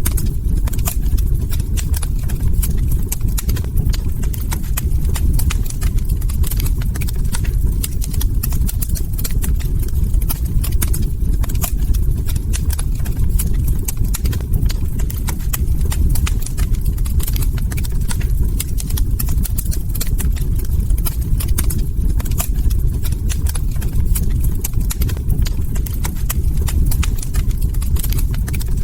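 Log fire crackling steadily: many small irregular pops and snaps over a constant low rumble from the burning wood.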